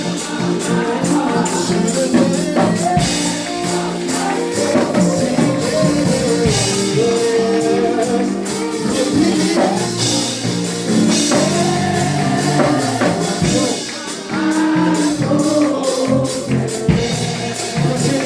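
Live gospel praise music with tambourine shaken on the beat, drums, and voices singing.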